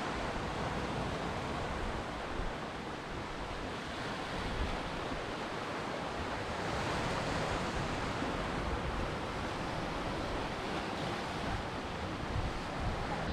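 Ocean surf: waves washing in as a steady, even rushing noise.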